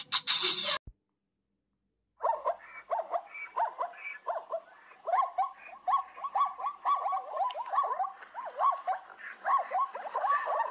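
Hoary marmots wrestling, giving a rapid run of short whining squeals, several a second, that begins about two seconds in after a brief silence. A short burst of high hissy noise comes at the very start.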